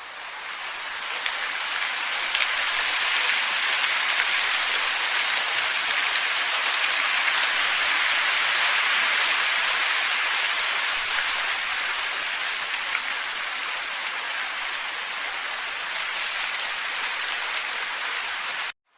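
Steady rushing wind noise. It fades in at the start, swells toward the middle, eases slightly, and cuts off suddenly near the end.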